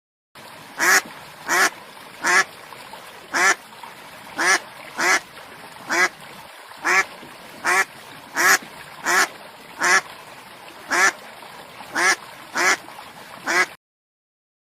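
Domestic duck quacking, about sixteen single quacks each under a second apart, over a steady background hiss. The recording begins and cuts off abruptly.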